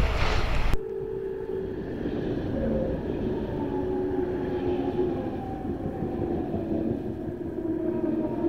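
Deutsche Bahn ICE-type passenger train running along the platform, giving several steady whining tones that slowly fall in pitch. Wind buffets the microphone for about the first second, then stops suddenly.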